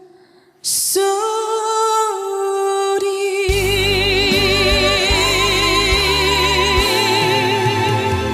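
Female singer holding long, wavering notes with vibrato in a Korean trot ballad. The band's accompaniment, with bass, comes in under the voice about three and a half seconds in.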